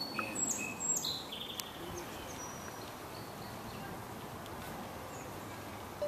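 A few short, high bird chirps in the first two seconds, over steady outdoor background noise that carries on alone afterwards.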